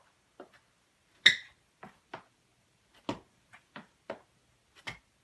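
Soccer ball touches and light footfalls on an indoor floor, heard as a series of short, irregular taps with one louder knock about a second in.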